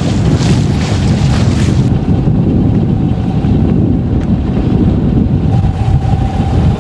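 Strong wind buffeting the microphone aboard a sailboat heading into a stiff headwind, a loud rumbling noise with a faint steady hum under it; a higher hiss drops away about two seconds in.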